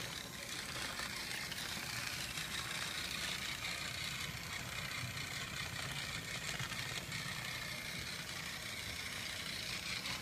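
Trackmaster battery-powered toy train engine running along plastic track: a steady electric motor whir with the light rattle of its wheels.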